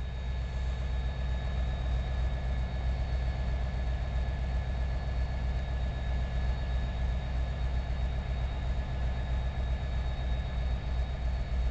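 Steady low rumble of a train approaching along the line from a distance, with a few faint steady high tones over it.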